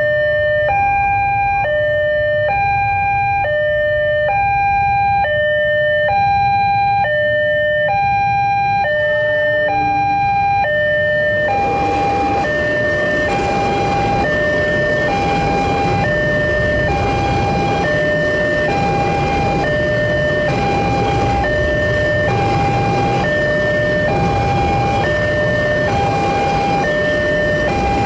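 Siemens railway level-crossing alarm sounding a two-note high-low tone, the notes alternating evenly about once every half second. This is the crossing's new replacement alarm. About a third of the way in, a loud steady rushing noise comes in suddenly under it and continues: a train passing over the crossing.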